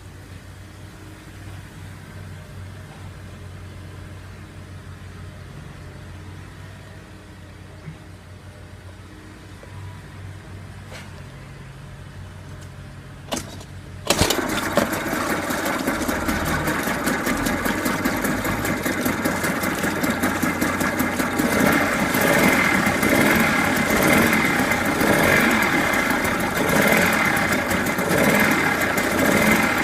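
Mercury 2.2 hp two-stroke outboard motor: a quiet low hum for the first half, then a short knock and a sudden jump to a loud, steady run about halfway through, its note pulsing toward the end.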